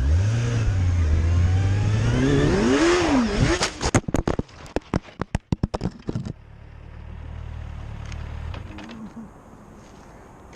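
Motorcycle engine accelerating, its pitch rising. About four seconds in it gives way to a crash: a rapid run of loud knocks and clatter lasting about two and a half seconds. A quieter, steady engine note follows.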